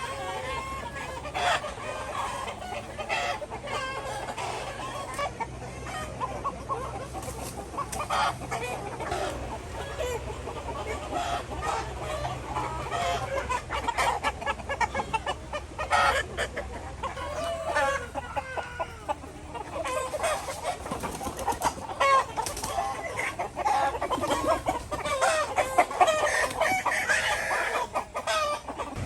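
A flock of chickens clucking and squawking, many short overlapping calls, with a few sharp knocks among them.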